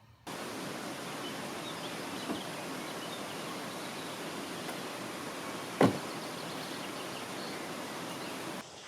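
A steady, even rush of outdoor ambient noise that starts and cuts off abruptly. It has a sharp knock about six seconds in and a softer one a little after two seconds.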